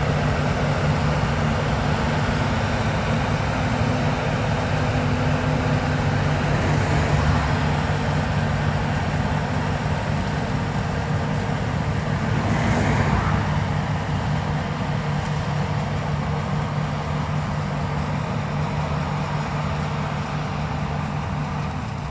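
Farm machinery's diesel engine running steadily, a constant drone with a low hum, with a brief swell about two-thirds of the way through.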